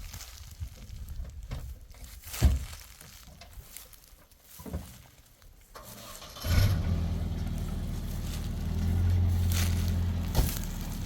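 A few scattered knocks and scrapes, then about six and a half seconds in an engine starts and runs steadily with a low, even pitch.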